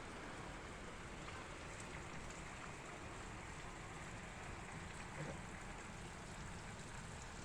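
Steady rain falling, an even continuous wash of noise with no let-up.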